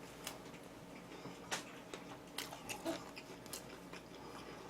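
Close-miked chewing and biting of food, heard as faint, scattered wet smacks and crisp clicks, about five or six in a few seconds.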